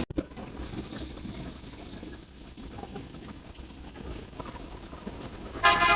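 Low rumble of street traffic, then a vehicle horn starts sounding loudly near the end.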